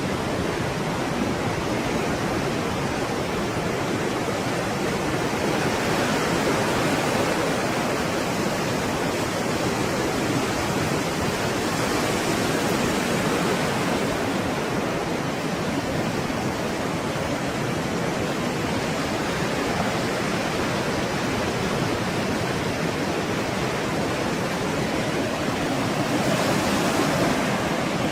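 Stormy sea surf: a continuous rush of breaking waves that swells louder now and then, most strongly near the end.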